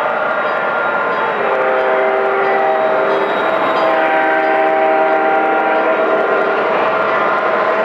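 MTH O scale SD45 model locomotive's onboard sound system sounding a diesel horn chord twice, a blast about a second and a half in and a longer one after a short gap, over the steady running sound of the model's diesel engine and the train on the track.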